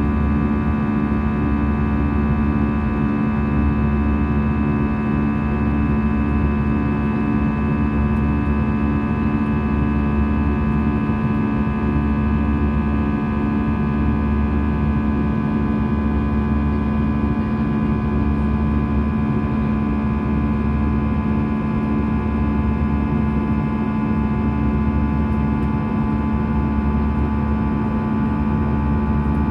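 Steady engine drone heard inside the cabin of an Airbus A320 airliner in flight: a constant low hum and rumble with several steady whining tones above it.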